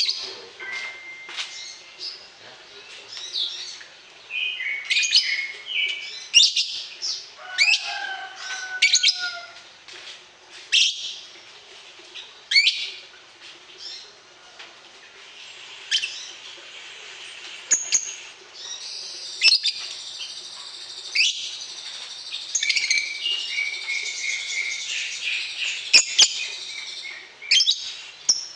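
Songbird calling: sharp high chirps every second or so, and a long, rapid trilling warble about two-thirds of the way through, over a faint steady hum.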